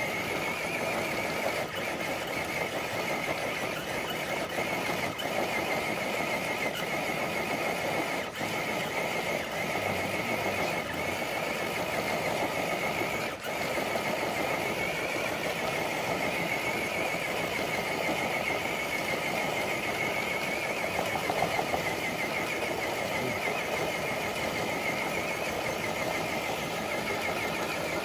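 Electric motor and gear drivetrain of an RC crawler truck whining steadily under load as it drags a dead-weight pulling sled, the pitch wavering slightly.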